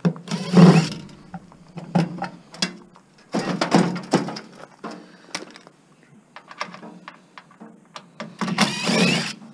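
Sheet metal and parts of an over-the-range microwave clattering and scraping as the motor is pulled out. Three rough scraping rattles, each lasting under a second, with scattered clicks and knocks between them.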